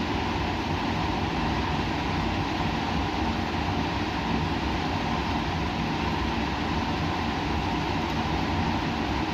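Steady white-noise-style ambience: a constant rumble and hiss with a low machine hum, unchanging throughout.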